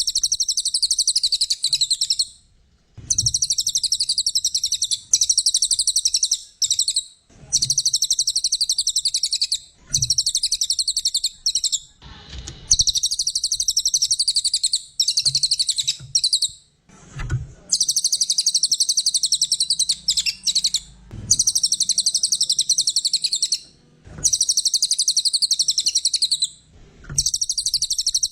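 Brown cililin songbird singing a rapid, high-pitched chattering song in phrases of two seconds or so, broken by short pauses, about ten phrases in all.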